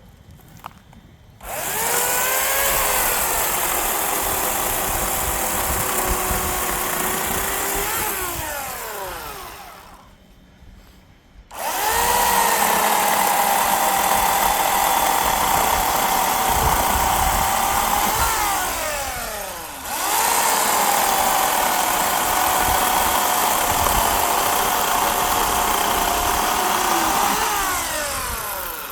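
Electric chainsaw running in three long bursts, each spinning down with a falling whine when released. The second and third bursts follow each other almost without a break.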